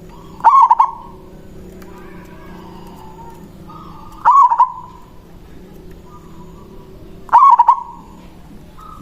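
Zebra dove (perkutut) singing its cooing song, three short warbling coo phrases about three and a half seconds apart. A steady low hum runs underneath.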